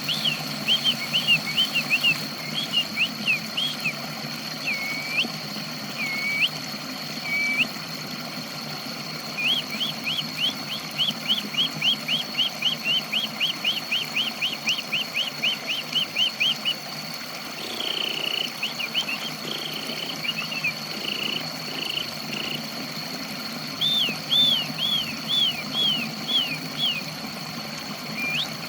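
A pet songbird singing in repeated short, rising chirps, with a fast even run of about three a second partway through. This is the bird starting to sing again after a water therapy for a bird that had stopped singing. A steady high whine and a low hum run underneath.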